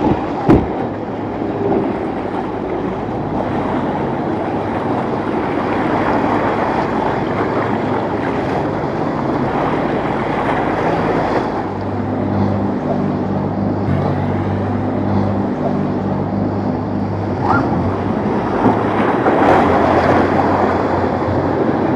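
Wind buffeting the microphone over surf and waves in the inlet. From about halfway through, a boat's engine drones steadily underneath, with a sharp knock about half a second in.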